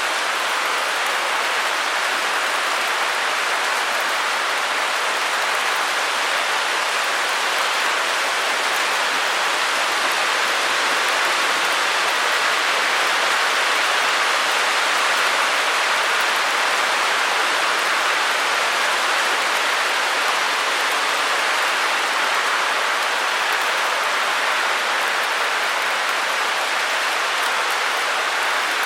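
Steady white-noise hiss, even and unchanging throughout, bright rather than deep.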